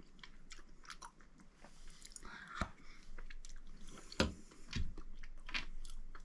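A person chewing a mouthful of soft, saucy rehydrated beef stroganoff with noodles close to the microphone: irregular wet mouth clicks and smacks, a few louder ones in the middle.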